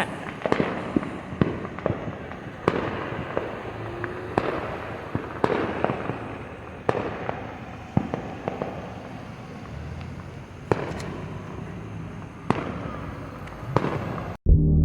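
Fireworks going off: sharp bangs about once a second over a continuous noisy rumble and hiss. The sound cuts off suddenly near the end.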